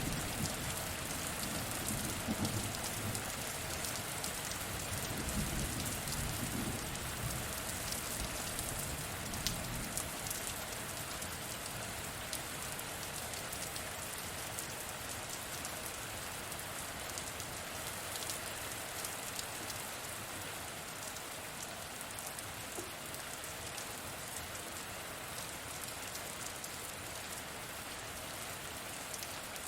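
Steady heavy rain with a dense patter of drops. A low rumble of thunder dies away over the first several seconds.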